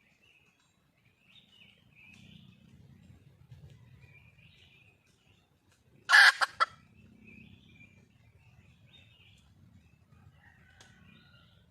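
Red junglefowl hen giving one loud, short call of three quick notes about six seconds in, a hen's call to draw a mate. Small birds chirp faintly around it.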